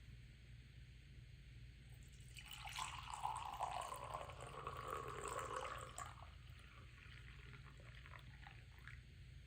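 Water running briefly, for about three and a half seconds starting about two seconds in, over a faint steady low hum.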